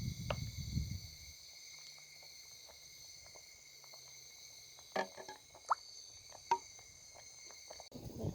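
A steady, high-pitched chorus of calling frogs. A low rumble fades out within the first second or so, and a few sharp clicks come about five to six and a half seconds in.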